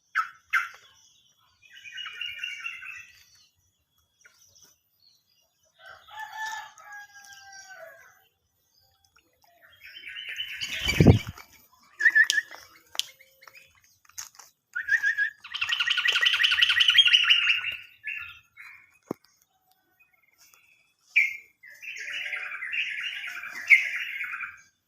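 Sooty-headed bulbul giving bursts of chattering calls in several spells, with wing flutters and one loud thump about eleven seconds in.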